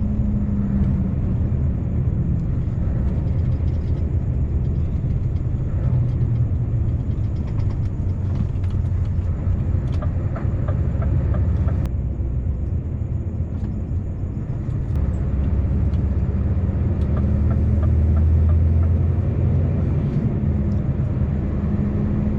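Scania V8 truck engine running at road speed while pulling a cement tanker: a steady low drone that swells about two-thirds of the way in.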